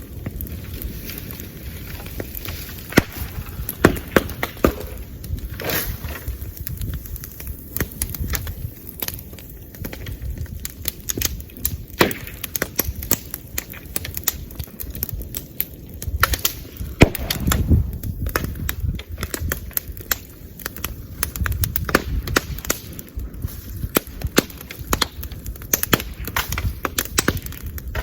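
Bamboo bonfire crackling steadily, with sharp pops and now and then a loud bang as bamboo sections burst in the heat, over a low rumble.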